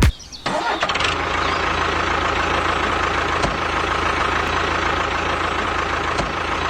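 A motor running steadily, starting about half a second in, with a faint steady whine and a few light clicks.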